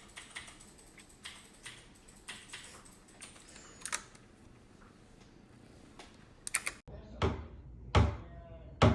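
Irregular light clicks and taps, two or three a second, like keys being pressed. After a sudden cut, three heavy thumps less than a second apart near the end.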